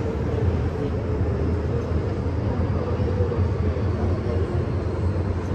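MTR M-Train heard from inside the car while running at speed: a steady, loud rumble of wheels on track, with a faint steady tone from the traction equipment.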